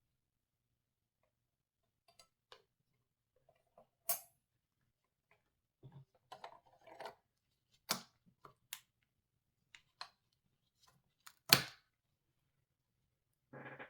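Scattered clicks, taps and knocks of computer parts being handled and fitted, with some brief rustling; the sharpest knock comes about three-quarters of the way through.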